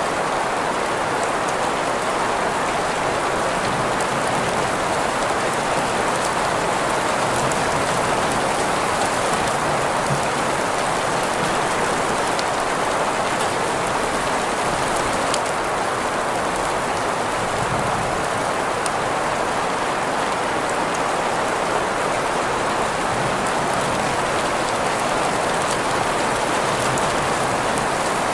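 Steady rain recording layered with green noise: an even, unchanging hiss centred in the middle of the range, with faint scattered drop ticks.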